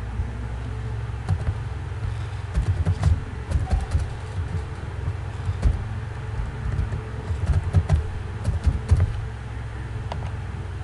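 Scattered clicks and taps of a computer mouse and keyboard over a steady low hum.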